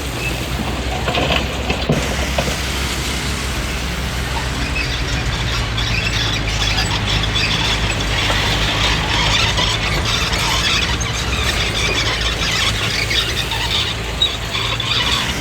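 Komatsu D20P crawler bulldozer's diesel engine running steadily while its steel tracks squeal and clatter as it moves. The squealing grows stronger about a third of the way in.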